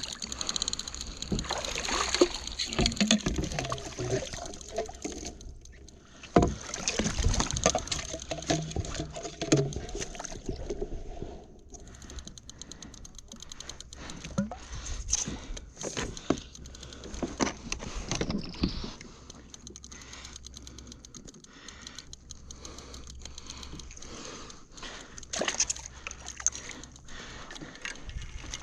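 Water sloshing and splashing around a fishing kayak, with scattered knocks and clicks of gear being handled on board.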